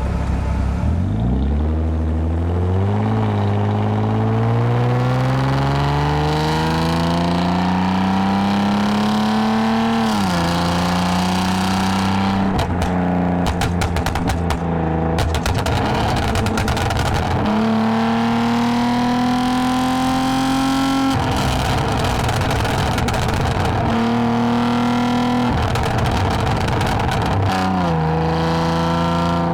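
2010 Lexus IS250 AWD's V6 engine through a full aftermarket exhaust with valved mufflers, accelerating: its note climbs in pitch in a long pull, drops sharply at an upshift about ten seconds in, and rises again in later pulls with further shifts.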